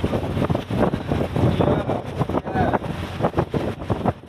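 Wind buffeting the microphone in uneven gusts aboard a fishing vessel, over the boat's low background rumble.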